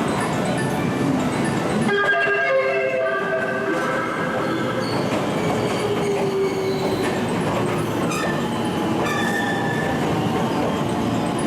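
Electric train running along a station platform with a steady rumble. Several high, squealing tones sound about two seconds in, and one tone slowly falls in pitch a few seconds later.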